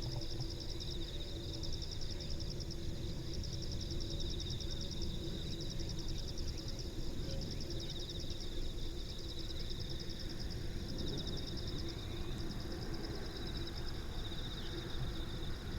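Insects chirping in rapid pulsed trills, two high-pitched trains overlapping and stopping and starting every few seconds, over a low steady rumble.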